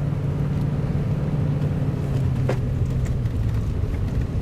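A vehicle engine running steadily with a low drone, its pitch dropping slightly a little past three seconds in. A single short click comes about halfway through.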